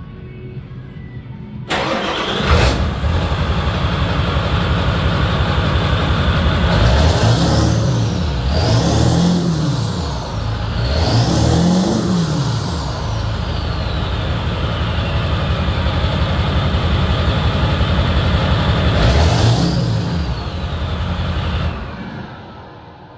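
Ford 7.3 Powerstroke turbodiesel V8 cranking briefly and starting about two seconds in, through a straight 5-inch exhaust stack with the muffler cut off. It is revved four times, each followed by a falling turbo whistle, and then shut off near the end.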